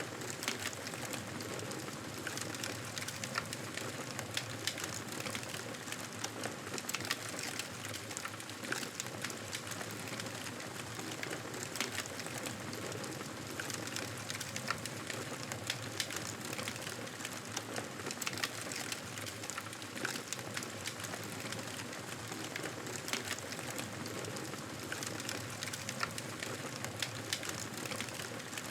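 Wood fire in a fireplace crackling, with frequent sharp pops and snaps over a steady hiss.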